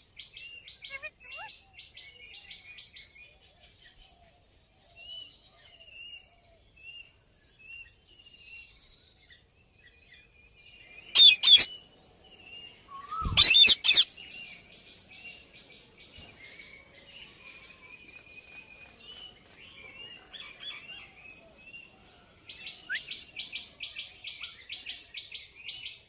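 Indian ringneck parrot calling: rapid trains of chattering notes and scattered short chirps, broken by two loud, harsh screeches about eleven and thirteen seconds in. A faint steady high tone runs underneath.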